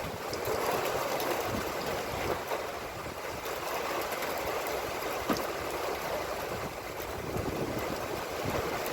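Steady rush of heavy rain and gusting wind, with scattered raindrops ticking and one sharper tick about five seconds in.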